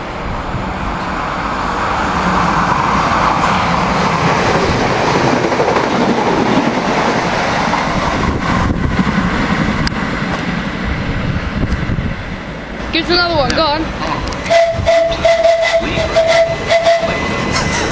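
Class 377 Electrostar electric multiple unit approaching and running past along the platform: a rushing noise that builds as it nears, then wheel clicks over the rail joints and a steady tone for a couple of seconds as the cab passes. A brief shout about 13 seconds in.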